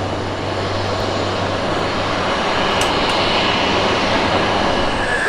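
Cessna 208B Grand Caravan's single turboprop engine running, a steady rush of engine noise that grows slightly louder, with a high whine coming in about halfway through.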